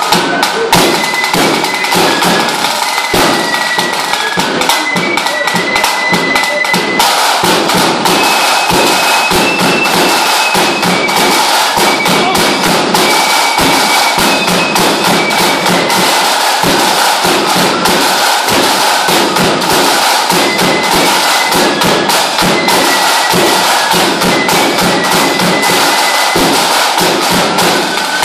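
Lambeg drumming: cane sticks beaten on the drum in a loud, dense, unbroken rattle of rapid strokes. A high thin melody sounds over it in short held notes.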